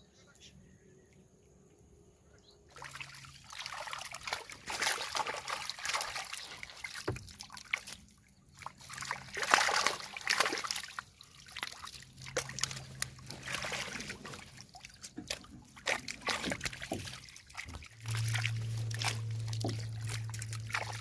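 Water splashing, sloshing and trickling in irregular bursts, starting about three seconds in, as water is worked by hand or with gear in shallow river water.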